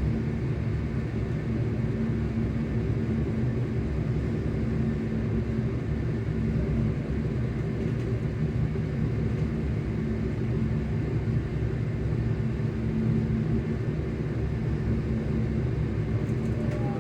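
ScotRail Class 385 electric multiple unit running at a steady speed, heard from inside the carriage: a steady low rumble of wheels and running gear with a constant low hum from the traction motors.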